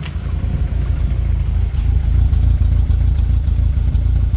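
Rover 25 GTI's 1.8-litre VVC four-cylinder engine idling with an uneven, pulsing beat: the misfire is still there, and a dose of injector cleaner has not cured it.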